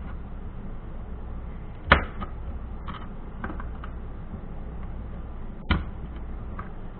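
A knife cutting a bar of Ivory soap into small chunks, knocking against the surface beneath: two sharp knocks, the first about two seconds in and the louder, with a few lighter clicks between them.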